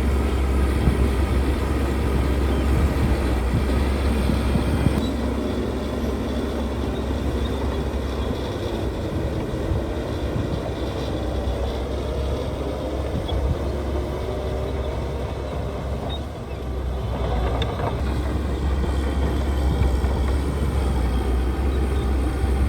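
Heavy diesel construction machinery running steadily with a deep rumble, dipping briefly about three-quarters of the way through.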